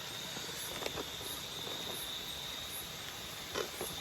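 Tropical night insects, crickets among them, keep up a steady high trill with a higher, pulsing chirp above it. Under them runs an even hiss of falling water, with a few faint taps.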